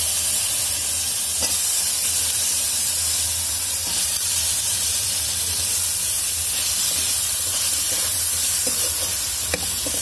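Cubed raw potatoes sizzling loudly as they fry in hot ghee and spice masala in a kadai, with a couple of light clicks of the ladle.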